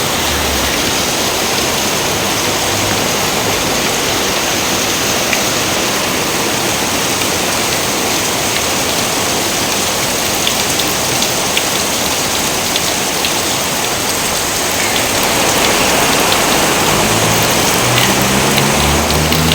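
Steady rain: an even hiss with scattered sharp drop ticks, growing a little louder after about fifteen seconds. A few low tones sound near the start and again near the end.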